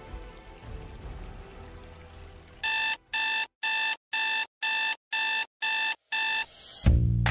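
Electronic alarm clock beeping: eight short, even, high-pitched beeps, about two a second, starting nearly three seconds in. Guitar music comes in right at the end.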